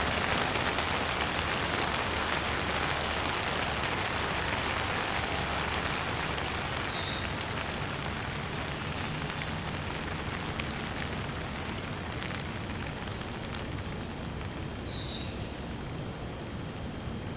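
Steady rain falling and pattering on surfaces, an even hiss with occasional single drops that slowly grows softer. Two brief high chirps come through, about 7 and 15 seconds in.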